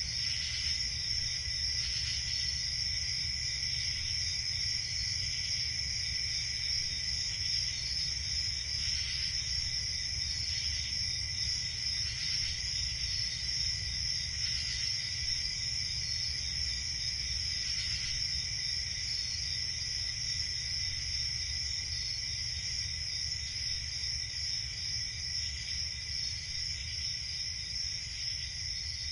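Night ambience of crickets chirping in a steady high chorus over a low, even rumble.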